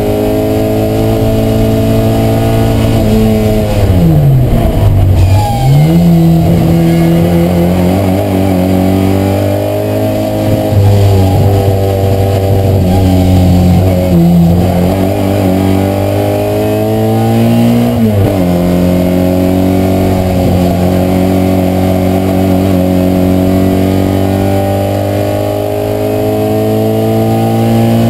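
Mini Cooper racing car's four-cylinder engine heard from inside the cabin under hard driving. Its pitch drops sharply about four seconds in as the car brakes and changes down for a corner, then it pulls again, with another gear change about eighteen seconds in followed by a long steady climb in revs.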